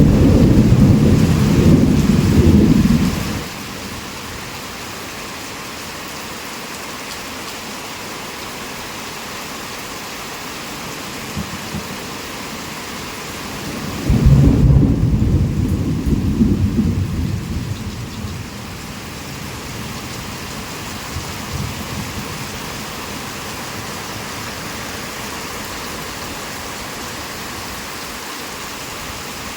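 Heavy rain falling steadily in a thunderstorm. A roll of thunder is dying away about three seconds in, and a second rumble breaks in suddenly about halfway through and rolls on for some four seconds before fading back into the rain.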